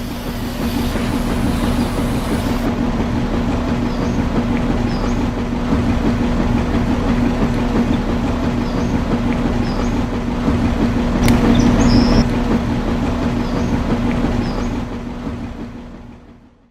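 Small electric motor running steadily with a constant hum over a noisy rattle, fading out near the end.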